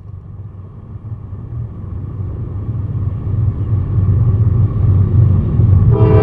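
Approaching Norfolk Southern diesel locomotive and train rumbling, growing steadily louder as it nears. Near the end the locomotive's horn starts to blow.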